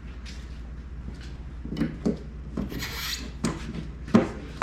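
Irregular wooden knocks and a short scrape, with a steady low hum underneath.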